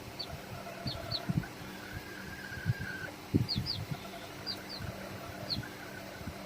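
Birds chirping: about ten very short, high chirps, each dropping quickly in pitch, scattered irregularly, over low thumps of wind or handling noise.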